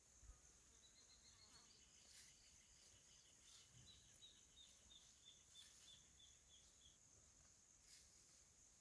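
Faint rural ambience: a steady high-pitched insect drone, with a long series of short, evenly repeated high notes from a bird or insect starting about a second in and stopping near the end.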